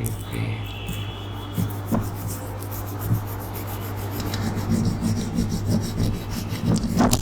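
A wooden toothpick rubbing and scratching in quick, irregular strokes close to the microphone.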